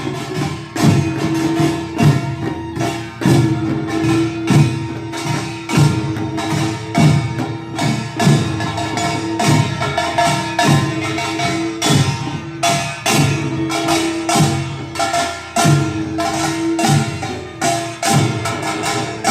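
Korean pungmul percussion band playing: rapid, dense metallic clanging over heavy drum beats about once a second, with a steady ringing tone underneath.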